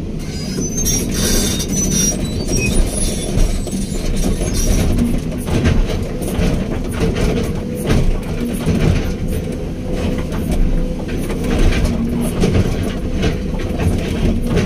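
Hydraulic excavator working: the diesel engine runs steadily under load while metal parts clank and knock throughout, with high-pitched metal squeals in the first few seconds.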